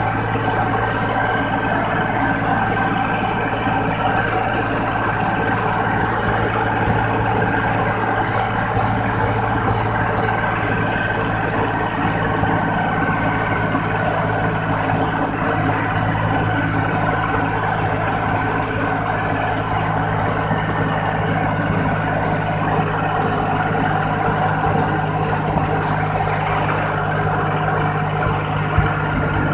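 Iseki 40 hp tractor's diesel engine running steadily through an aftermarket 'fuel-saving' exhaust pipe, heard from the driver's seat while driving.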